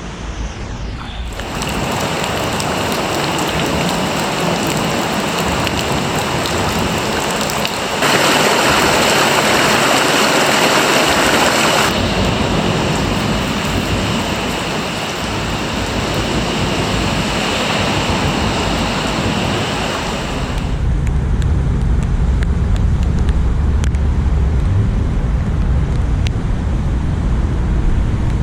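Steady rush of heavy rain and wind noise, loudest for a few seconds about eight seconds in. About twenty seconds in the hiss falls away and a low rumble takes over.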